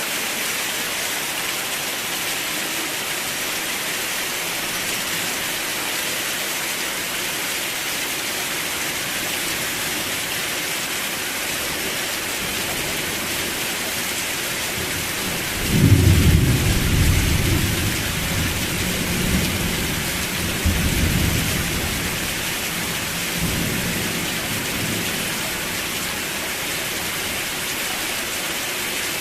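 Steady heavy rain, with a roll of thunder about halfway through that rumbles low for several seconds and dies away.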